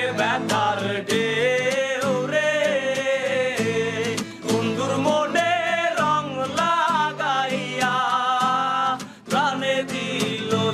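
Background music: a Bengali song, a solo voice singing a wavering melody over steady instrumental accompaniment.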